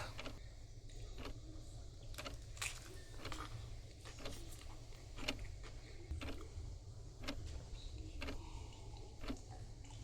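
Scattered short clicks and light knocks, about one a second, over a steady low hum.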